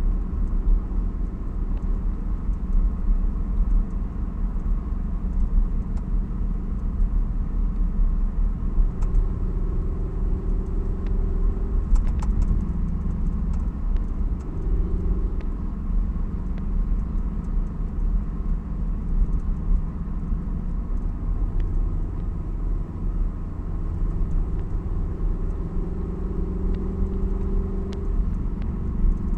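Toyota 86's FA20 flat-four boxer engine with aftermarket unequal-length headers, running under way with a low exhaust rumble, its note rising and falling gently with the throttle over steady road noise.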